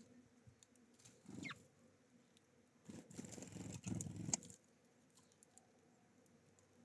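Small birds (great tits, sparrows, greenfinches) at a feeder: faint taps and scratches as they peck at seed. A short call comes about a second and a half in, and a louder bout of rustling and fluttering runs from about three to four and a half seconds.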